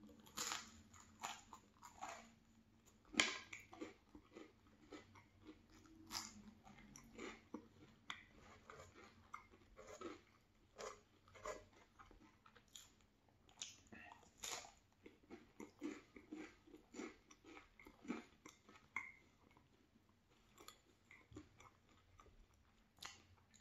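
A person chewing mouthfuls of cheese bagel with jam: quiet, irregular mouth clicks and chewing noises.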